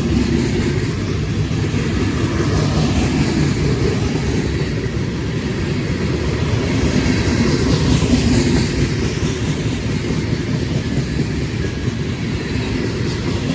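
Freight train of steel gondola cars rolling past at close range, which the filmer thinks are empty. It makes a steady, continuous rumble with a dense clatter of wheels on the rails.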